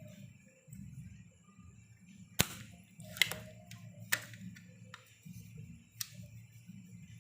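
Four sharp clicks or knocks, spaced about a second apart, over a low steady hum.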